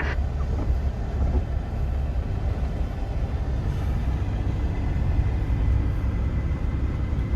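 Truck's diesel engine running steadily with a low rumble.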